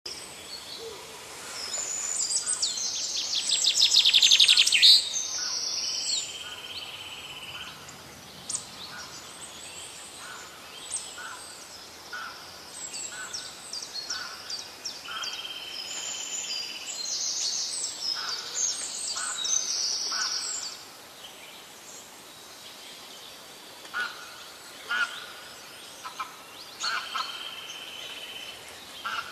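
Songbirds singing: high chirps, rapid trills and short whistled notes in repeated phrases, loudest about four seconds in and again around the middle, thinning out to scattered chirps after about twenty seconds.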